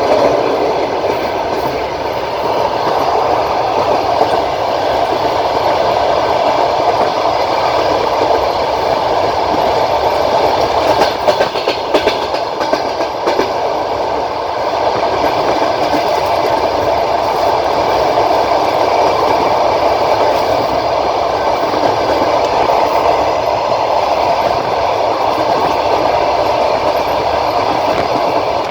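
Passenger train running along the track, heard from aboard: a steady rumble of wheels on rails, with a short run of wheel clicks about halfway through.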